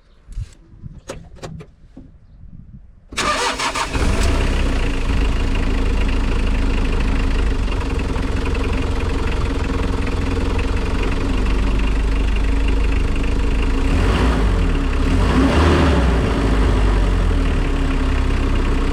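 A few clicks, then the Mitsubishi L300 van's engine is cranked and starts about three seconds in, and settles into a steady idle. It is run after an oil change so the freshly filled oil circulates and its level can be rechecked.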